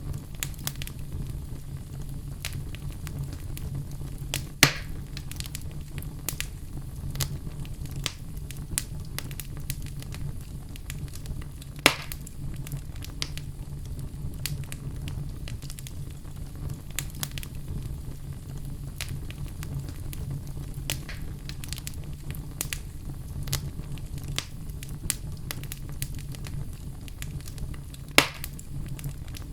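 Log fire crackling: a steady low rumble of flames under a constant scatter of small snaps and pops from burning wood. Three louder pops stand out, about 5, 12 and 28 seconds in.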